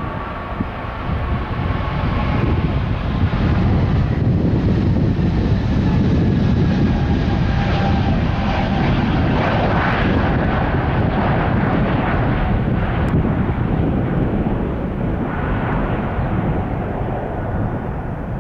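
Twin-engine jet airliner taking off: a steady jet engine roar with a faint whine that slowly falls in pitch, swelling a few seconds in and easing near the end.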